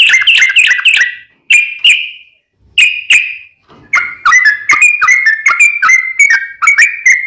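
Yellow-vented bulbul (trucukan) singing: bubbly whistled phrases broken by short pauses, then, from about four seconds in, a long unbroken run of rapid notes, the 'long ropel' used as a lure to set other bulbuls singing.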